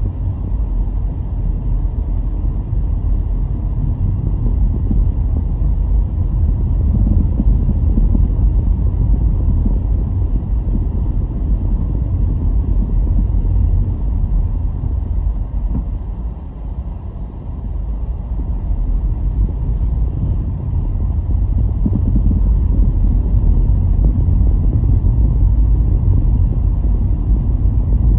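A car driving along the road: a steady low rumble of tyres and engine, easing off briefly a little past halfway before building again.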